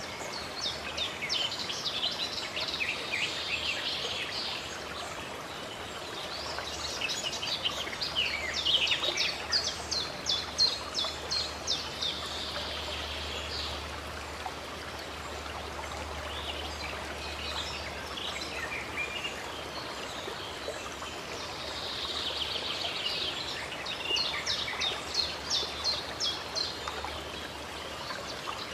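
Running stream water flowing steadily, with songbirds singing over it in several bouts of rapid repeated high notes.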